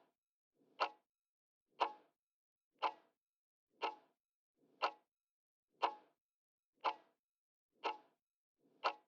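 Clock-tick sound effect counting down the answer time, one sharp tick a second, about nine ticks with silence between them.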